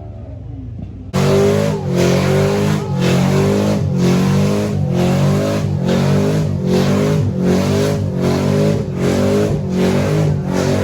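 Car engine revving hard, held high and pulsing about every three quarters of a second, with tyre noise; it starts abruptly about a second in.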